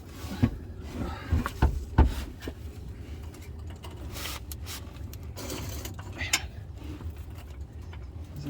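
Clunks and knocks of a heavy automatic transmission and a small transmission jack being shifted by hand, several sharp ones in the first two seconds and another later, over a low steady hum.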